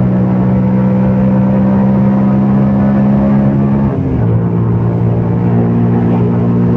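CFMOTO Papio 125's single-cylinder four-stroke engine running under way, with a steady, slightly rising note. About four seconds in the note dips briefly, then settles a little lower.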